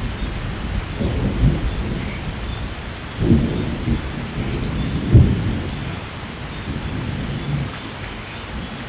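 Thunderstorm: steady rain with low rolling thunder, swelling about a third of the way in and peaking again just past halfway, then easing to rain alone near the end.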